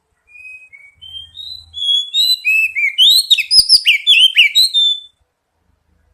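Oriental magpie-robin singing a single long song phrase of quick, varied whistled notes, starting soft and growing loud, then stopping about a second before the end.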